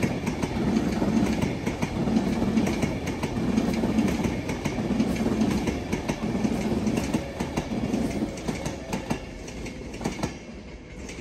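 A train running past on the main line, its wheels clicking over rail joints in a regular rhythm of about one beat a second, dying away near the end.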